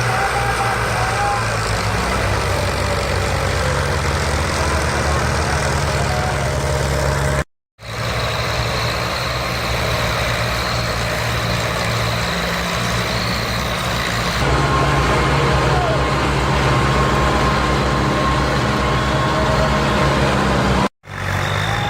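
Tractor diesel engines running hard under load, pulling together on a stuck trolley. The sound is loud and steady, broken by two brief cuts to silence, one about a third of the way in and one near the end.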